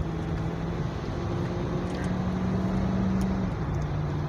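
Lexus LX470's 4.7-litre V8 engine and road noise heard from inside the cabin while driving. The engine note climbs slightly from about a second in, then drops back after about three and a half seconds.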